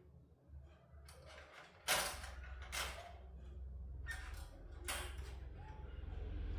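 Handling sounds while taking a TV apart: several short scrapes and knocks of parts and tools, the loudest a sudden one about two seconds in, over a low steady hum.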